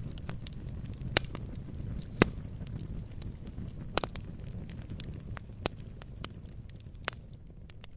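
Campfire crackling: irregular sharp pops and snaps of burning wood over a low, steady rumble of the flames. The loudest pop comes a little over two seconds in, and the sound grows fainter near the end.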